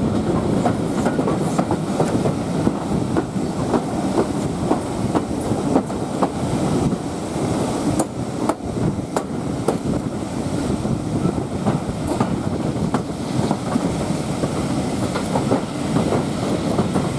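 Passenger coach running along the line: a steady rumble of the wheels on the track, with clicks as they pass over rail joints.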